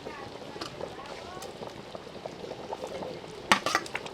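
Faint voices talking in the background, with a quick cluster of sharp clicks or knocks about three and a half seconds in.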